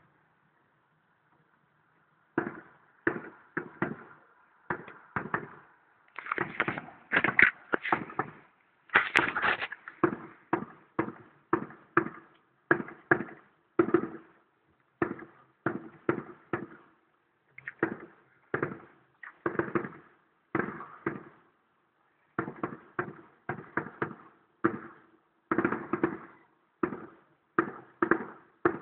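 Distant fireworks display heard through a phone microphone: a steady run of bangs, about one or two a second, each trailing off in a short echo. The bangs start after about two seconds of quiet and bunch more thickly around the six- to ten-second mark.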